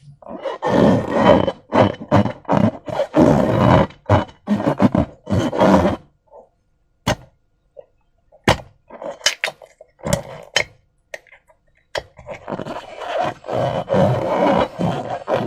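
Slime squelching and crackling as it is squeezed and kneaded by hand, in irregular wet runs, with a sparser stretch in the middle of single sharp clicks and snaps.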